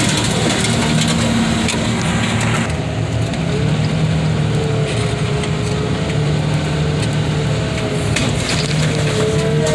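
Heavy diesel car-crushing machinery running steadily, with a hydraulic whine that comes and goes and scattered sharp cracks and crunches of metal and debris.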